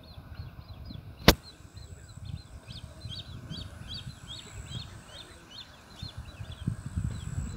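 Small birds chirping, a quick run of short high notes repeated over and over, over a low rumble of wind on the microphone. One sharp click about a second in.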